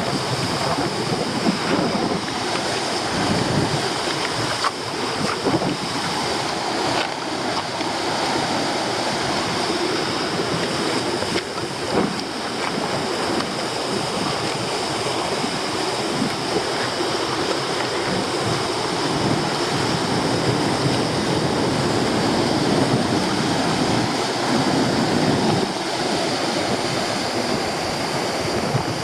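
Stormy sea surf breaking on a rocky shore, with very strong wind blowing across the microphone: a loud, dense, continuous rush that surges unevenly.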